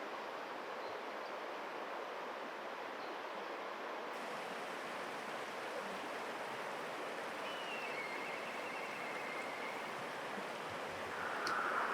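Steady outdoor noise haze like running water. About seven and a half seconds in, a faint black kite call: a high whistle falling into a wavering trill for about two seconds. Just before the end, a much louder call begins.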